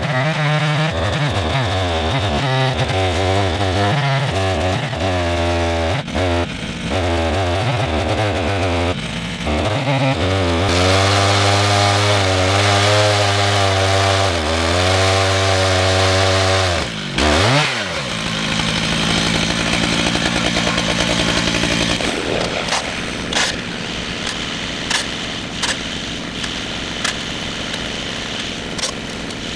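Chainsaw in a chainsaw mill running near full throttle while ripping a red oak log lengthwise, its engine pitch sagging and recovering as the chain loads up in the cut. About 18 seconds in the revs drop sharply, and the saw then runs lower with scattered clicks.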